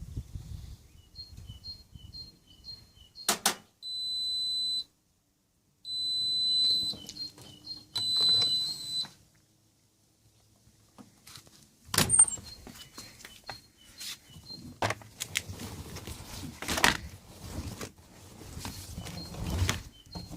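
Washing machine's electronic beeper sounding a high steady tone, once for about a second and then for about three seconds, typical of an end-of-programme signal. Repeated short two-pitch chirps and scattered clicks and knocks sound around it.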